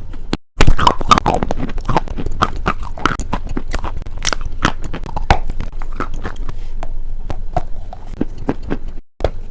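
Close-miked crunchy chewing and biting: a fast, irregular run of crisp crunches. The sound cuts out briefly about half a second in and again near the end.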